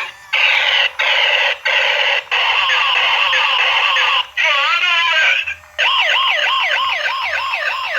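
Electronic police siren cycling through several patterns, each lasting a second or so with brief breaks between them. Near the end it settles into a fast up-and-down yelp of about four sweeps a second.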